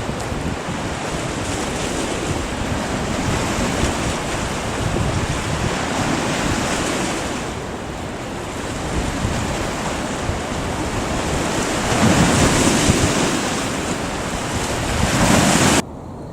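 Wind-driven waves breaking and washing onto the shore, with strong wind buffeting the microphone; the surf swells louder twice in the second half. Just before the end it cuts off abruptly to a much quieter background.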